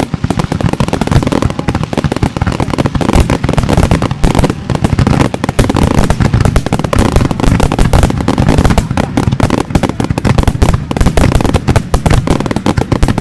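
Aerial fireworks going off in a rapid, continuous barrage, many sharp bangs a second overlapping one another.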